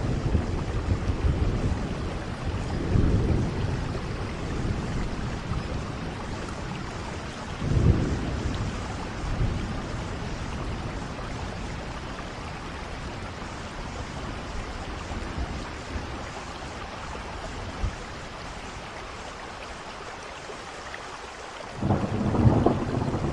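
Steady rain falling, with low rolls of thunder swelling up a few times and a louder roll breaking in suddenly near the end.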